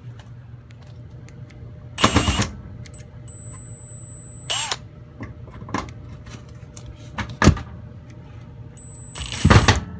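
Screws being taken out of a washing machine's back panel with a flathead screwdriver: several short scraping, clattering bursts and small clicks of tool and metal. Twice a thin, high-pitched squeal is held for about a second.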